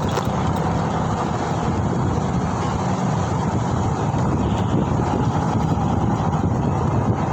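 Steady wind rushing over the microphone together with road and traffic rumble, heard from a moving ride.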